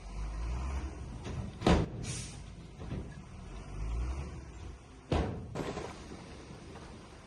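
Heavy earthmoving machinery with a low engine rumble that swells and fades, broken by two loud sharp metal bangs about three and a half seconds apart, each followed by a short hiss.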